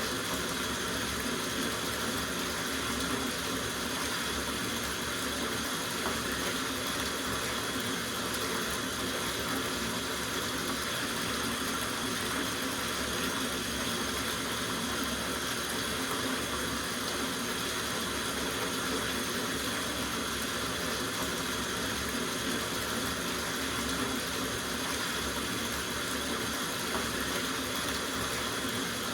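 Tap water running steadily into a soaking bathtub, an even, unbroken rush of water.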